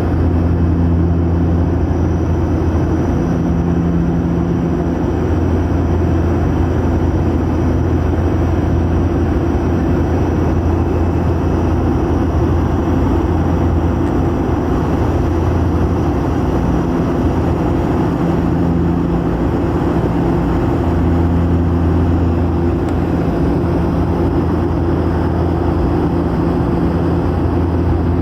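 Steady drone of an aeroplane's engines heard from inside the cabin, with a low hum and a rushing noise that stay constant throughout.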